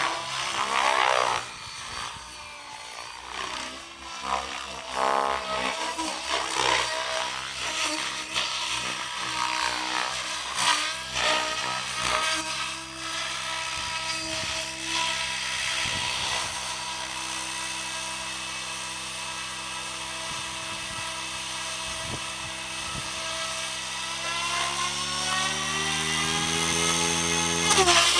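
Electric Soxos 700 RC helicopter in flight, its Xnova motor and rotor whining. The pitch shifts up and down during the first half, holds steady through the middle, then rises over the last few seconds.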